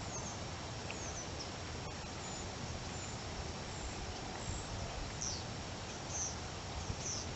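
Steady outdoor background noise with a small bird's short, high, falling chirps repeating, several in quick succession in the second half.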